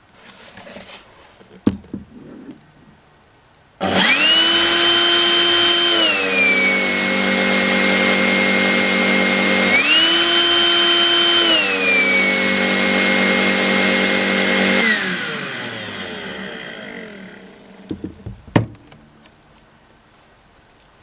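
Makita 18V cordless stick vacuum cleaner's motor and fan switched on, running with a high whine. It steps down to a lower speed, back up to high, down again, then is switched off and winds down over a couple of seconds, with a few clicks before and after.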